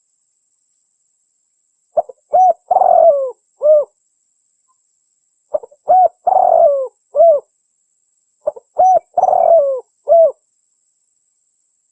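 Spotted dove cooing: three phrases about three seconds apart, each a couple of short coos, a longer rougher coo sliding down in pitch, and a final short coo.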